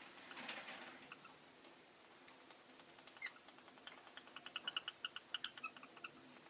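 Rosy-faced lovebirds chirping softly: one short rising chirp, then a quick run of short squeaky chirps, about five or six a second, near the end. A brief soft rush of noise comes about half a second in.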